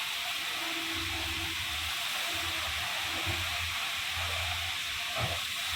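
Touch-free automatic car wash at work: a steady hiss of high-pressure jets playing over the car, with a low hum that comes and goes.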